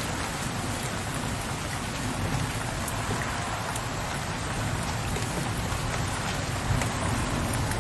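Steady heavy rain falling on a window ledge, with a low rumble of distant thunder underneath that swells slightly near the end.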